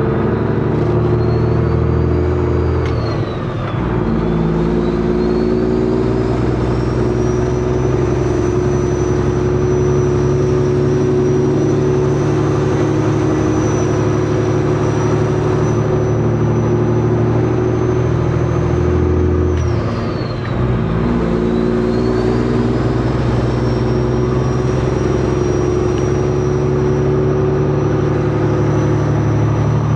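Semi truck's diesel engine pulling away and working up through the gears, with two upshifts about three seconds and twenty seconds in. At each shift the engine note and a high whine drop briefly, then climb again as it pulls.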